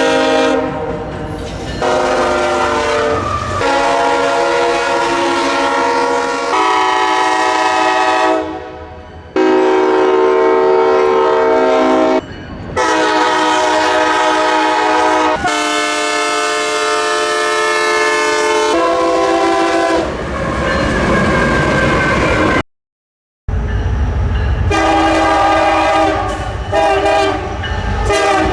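Train horn sounding a series of long blasts, each a chord of several steady notes, in separate segments that start and stop abruptly. A train's rumble sits under the later blasts, and there is a brief total silence about three-quarters of the way in.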